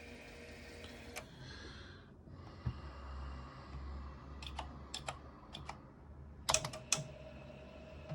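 Keys of a computer keyboard pressed one at a time: a handful of separate clicks, then a quick cluster of several near the end, over a faint steady hum.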